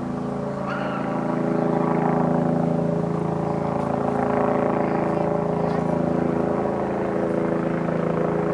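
Kyushu Shinkansen train running at speed: a steady rumble with several constant humming tones.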